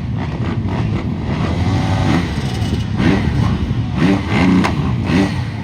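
Several motocross dirt bikes revving together at the starting line, the pitch of the engines rising and falling over and over.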